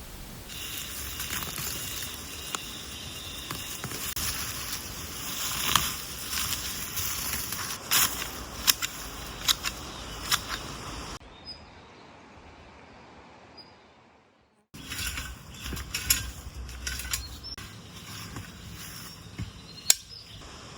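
Scattered sharp clicks and knocks over a steady hiss, falling away to near silence for a few seconds around the middle, then resuming.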